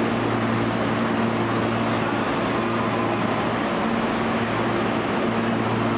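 A Hankyu commuter train standing at an underground platform, its on-board equipment giving a steady low hum over even mechanical noise.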